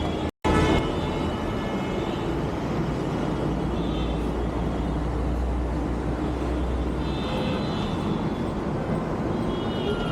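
Steady vehicle rumble and traffic noise, broken by a sudden cut about a third of a second in, with a few short high tones.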